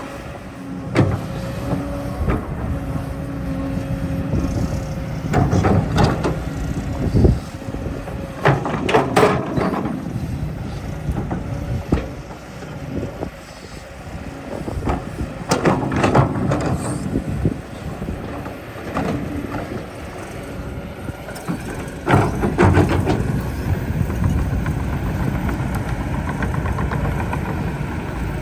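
Excavator running steadily, with four bursts of clanking and scraping as it digs and moves earth.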